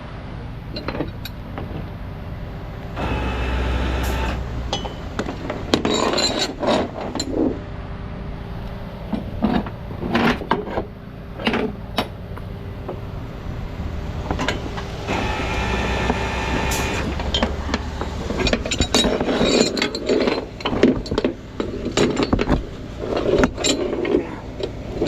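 Rollback tow truck's winch and hydraulics running in two short bursts, about three seconds in and again about fifteen seconds in, with chains and hooks clinking and knocking as the car is rigged for an even pull.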